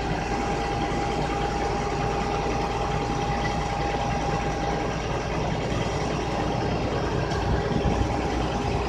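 An engine idling steadily: a constant low rumble with a steady whine above it.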